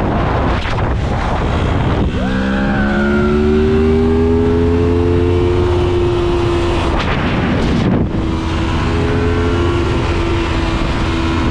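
Motorcycle engine running under way, its note climbing slowly as it accelerates from about two seconds in, breaking off around seven to eight seconds in, then holding a steady pitch.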